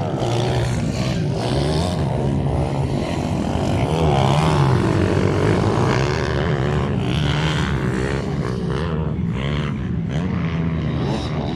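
Small minibike engines running hard, a steady buzz whose pitch keeps rising and falling.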